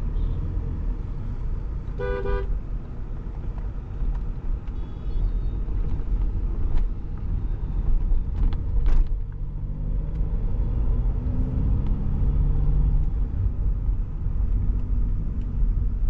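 Stage 2 tuned VW Polo diesel with a full aftermarket exhaust driving, a steady low engine and road rumble. A car horn honks once briefly about two seconds in. From about ten to thirteen seconds the engine note rises as the car accelerates.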